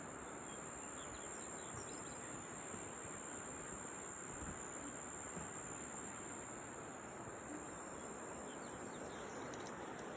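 Natural ambience: an insect holding one steady high-pitched trill, with a few faint bird chirps, over an even low hiss.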